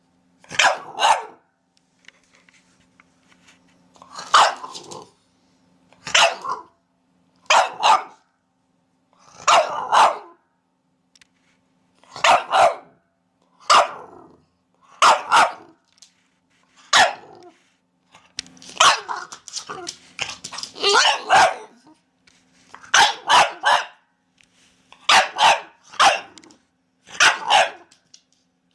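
A dog barking repeatedly: single and double barks every second or two, with short pauses between them.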